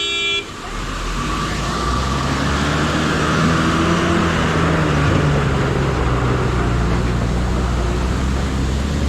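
A vehicle horn honks briefly at the very start, then a motor vehicle's engine runs with a steady low drone over road noise.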